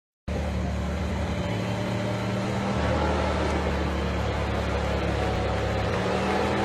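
Engine running steadily at low speed, its hum stepping in pitch a few times, over a continuous noisy background.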